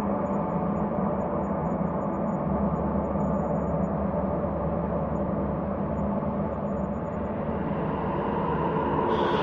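Ambient space drone: a steady bed of layered low, held tones, with a brighter, higher layer coming in near the end.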